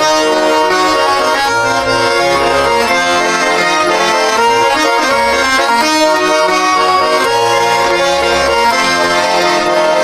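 Accordion playing an instrumental interlude of a song: sustained chords over a bass that moves to a new note every second or so.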